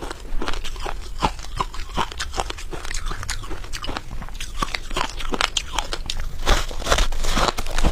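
Freezer frost being bitten and chewed: a fast, irregular run of crisp crunches, several a second, growing busier and louder near the end.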